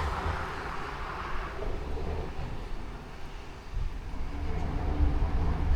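Heavy truck's diesel engine and road noise: a low steady rumble that eases off about three to four seconds in and builds again near the end.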